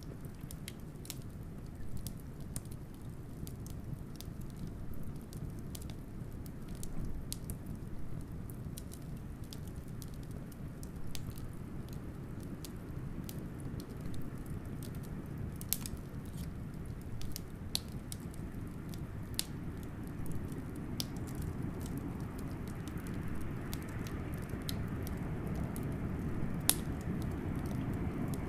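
Wood fire crackling, with irregular sharp pops and a few louder snaps, over a steady low rumble of blizzard wind that swells somewhat in the last few seconds.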